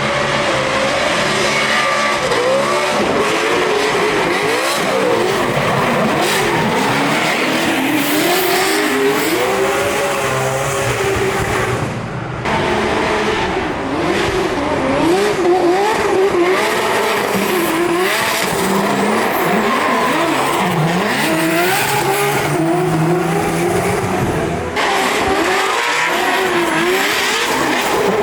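High-revving drift cars at full throttle, engine pitch rising and falling repeatedly as the drivers work the throttle through the drift, over the hiss and squeal of tyres sliding. The sound changes abruptly about twelve seconds in and again near the end, as one car gives way to another.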